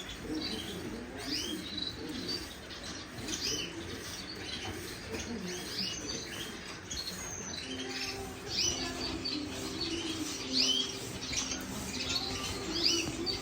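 A roomful of caged canaries and finches chirping and calling over one another: many short, high chirps with no pause.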